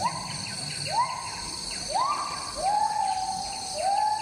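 Rainforest ambience: a bird's whistled call, each note rising quickly and then held, repeated about once a second, over a steady high drone of insects.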